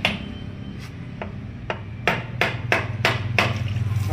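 A series of sharp taps, like a hand tool striking metal: a few spaced ones, then a quicker run of about three a second in the second half. A steady low engine hum runs underneath.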